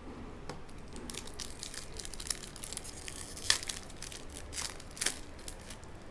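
Plastic-foil trading-card pack wrapper being torn open and crinkled, a run of sharp crackles and snaps with two louder ones near the middle and later on.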